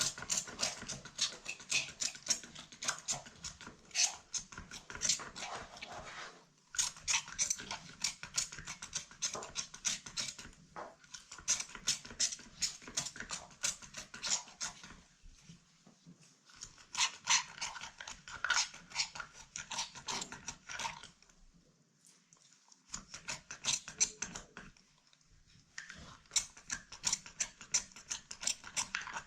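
Rapid, scratchy scrubbing strokes on a handbag during cleaning, coming in runs of a few seconds with short pauses between them.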